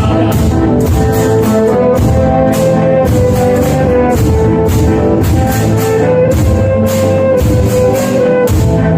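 Pastellessa music: barrels, tubs and sickles beaten in a steady loud rhythm, about two strokes a second, under a held, stepping melody.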